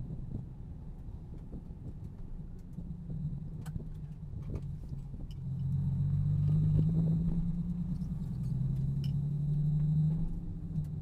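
Nissan 370Z Nismo's 3.7-litre V6 running at low speed, heard from inside the cabin. Its low steady note gets louder about five and a half seconds in as the car pulls along, and drops back near the end.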